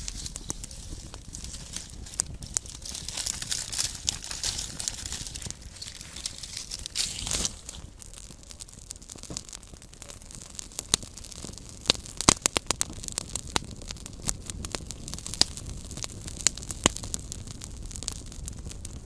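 Small wood campfire crackling: irregular sharp pops and snaps over a soft rushing of flame, with a hiss for a couple of seconds early on and a brief louder rush about seven seconds in. A quick run of loud pops comes about twelve seconds in.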